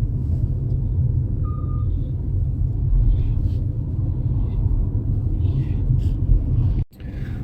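A steady low rumble with no clear pitch, cut off suddenly for a moment near the end.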